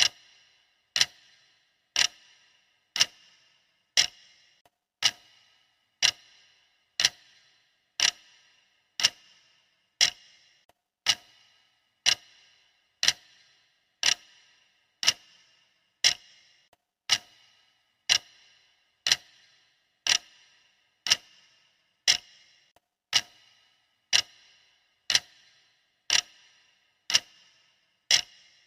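Clock-style ticking of a countdown timer: sharp ticks, exactly one per second, each with a short ringing tail.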